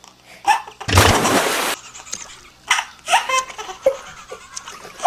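A water splash about a second in, lasting under a second, with bursts of high-pitched laughter before and after it.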